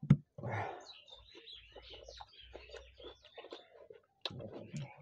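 Close-up mouth sounds of eating soft kochuri and aloo dum by hand: wet chewing and lip smacks, heard as a sharp click at the start and then a string of small clicks and smacks.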